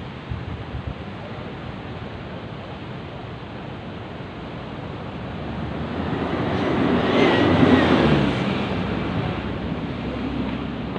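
Sea waves washing in over a steady background rush, with wind on the microphone; one wave swells louder about six seconds in, peaks, then fades.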